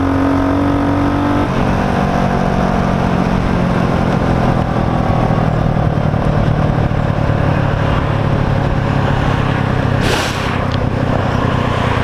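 Motorcycle engine running while riding, its pitch changing abruptly about a second and a half in, then running on steadily; a brief hiss about ten seconds in.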